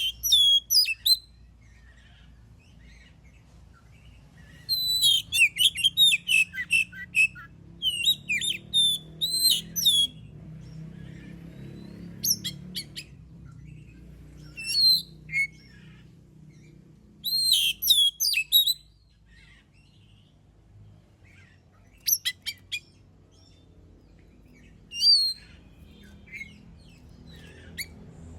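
Oriental magpie-robin (kacer) singing vigorously in bursts of rapid, loud whistled phrases with sliding notes, separated by pauses of a second to several seconds.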